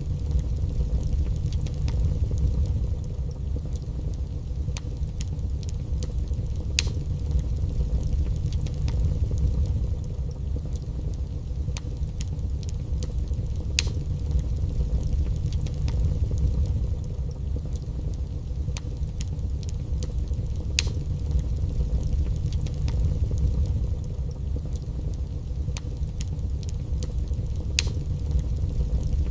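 Wood fire burning in a fireplace: scattered sharp crackles and pops at irregular intervals over a steady low rumble.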